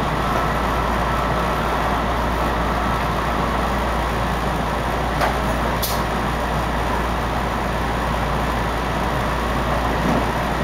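Running noise of an electric commuter train heard from inside the passenger cabin: a steady rumble of wheels on rails, with a single sharp click about five seconds in and a brief high hiss just after.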